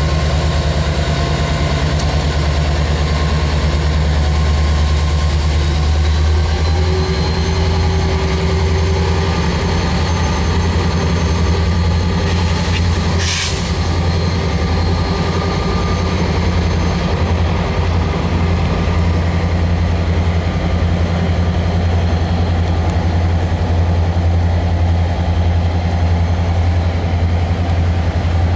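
CSX train's diesel locomotive engines running steadily as the train pulls away, a loud low rumble with rail-car noise over it. A short high-pitched sound cuts through about halfway.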